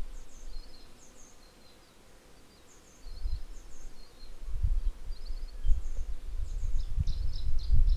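A small bird chirping in short, high, repeated phrases. About three seconds in, gusts of wind start buffeting the microphone with a low rumble that comes and goes and grows louder than the bird.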